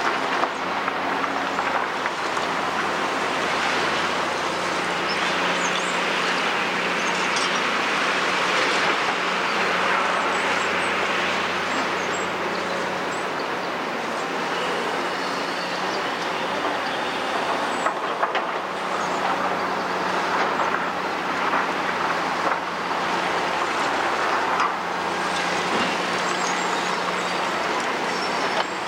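Caterpillar 345D hydraulic excavator working, its diesel engine running steadily under load with a constant low hum, with occasional short high squeaks.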